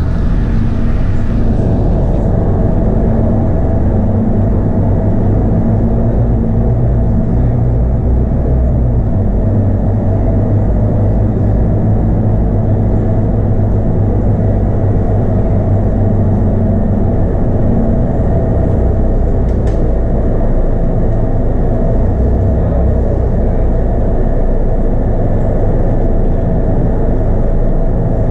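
Scania K230UB bus's five-cylinder Scania DC9 diesel engine running, heard from inside the bus as a steady low drone with a hiss of road and body noise.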